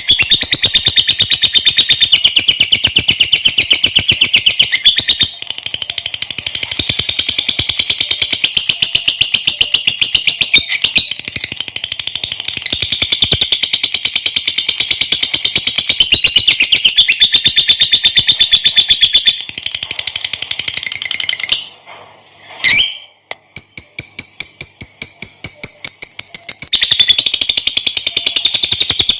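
Lovebird (Agapornis) singing its long 'ngekek' chatter: a rapid, unbroken, high-pitched trill of fast repeated notes. It breaks off briefly about three-quarters of the way through, then starts again.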